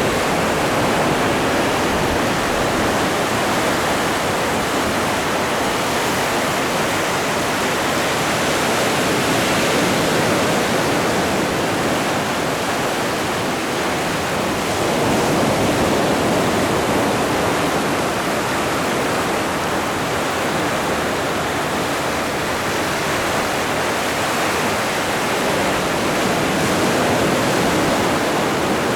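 Atlantic Ocean surf: a steady rush of breaking and washing waves, swelling gently every several seconds.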